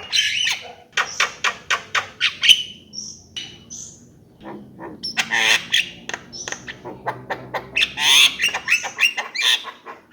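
Javan myna singing: a varied stream of harsh squawks, rapid clicking notes and short whistles.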